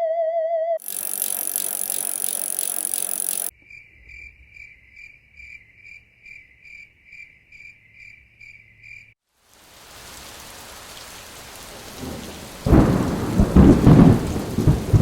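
A string of separate sounds. A wavering tone ends in the first second and is cut off by about three seconds of loud hiss. A high tone then pulses about twice a second for some five seconds, followed by rain whose noise builds and gives way to loud rumbling thunder about two-thirds of the way in.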